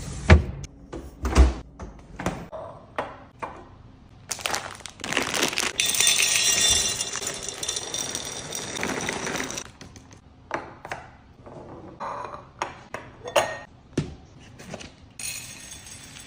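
Containers and food items being handled and set down while a refrigerator is stocked, making a run of knocks, taps and clicks. From about four seconds in, a continuous hissing rustle lasts for about five seconds.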